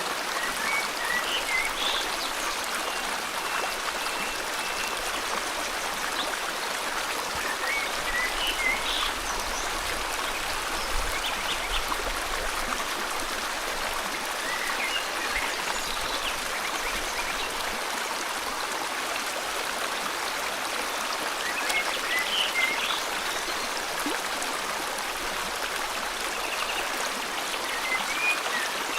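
Steady rushing flow of river water, with birds chirping in short phrases every several seconds: near the start, about eight seconds in, around fifteen and twenty-two seconds, and near the end.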